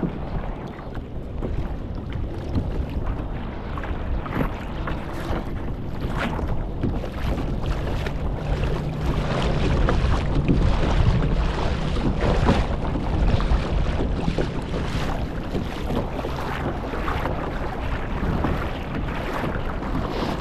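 Sea water splashing and slapping against a kayak hull as it moves, with wind buffeting the microphone.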